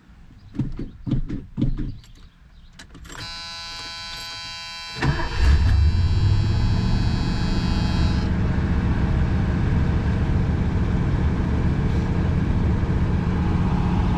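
Accelerator pedal pumped three times, then a steady dashboard warning buzzer comes on and the 1977 Ford LTD's V8 cranks and catches about five seconds in. The engine then runs steadily on its cold high idle through the new dual Magnaflow exhaust, heard from inside the cabin.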